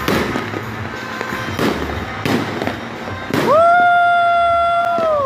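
Fireworks going off in sharp bangs with crackling in between. About three and a half seconds in, a loud, steady horn-like tone starts with a quick upward slide, holds for nearly two seconds and drops in pitch as it stops.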